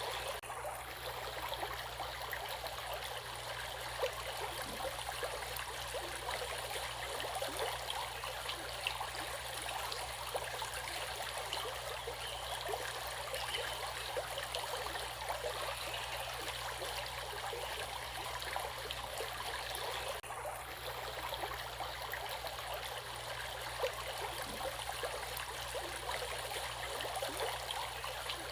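Stream water running steadily, with small gurgles and trickles over a continuous rushing noise.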